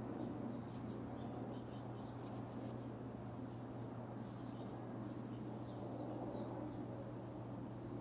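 Small birds chirping: many short, high chirps scattered throughout, some dropping in pitch, over a steady low hum.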